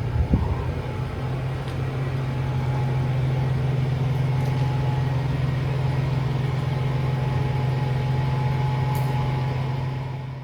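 A vehicle's engine running with a steady low hum, cutting off abruptly near the end.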